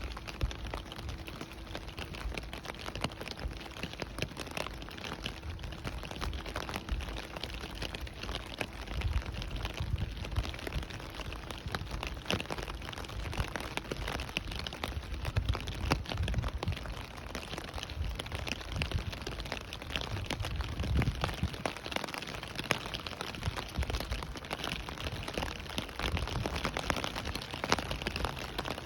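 Steady rain falling, with many separate drops ticking and cracking on a nearby surface over a continuous rush and a low rumble.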